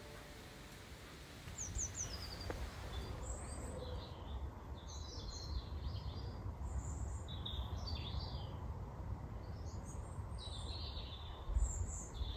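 Small birds singing and calling. A quick run of three high falling notes comes about two seconds in, then a busy string of short twittering chirps from about three seconds on, over a low steady outdoor rumble.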